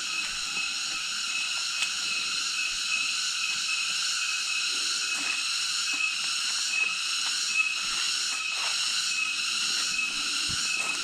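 Steady chorus of tropical forest insects: a continuous high buzzing drone with a pulsing note repeating about twice a second. A few faint clicks sound through it.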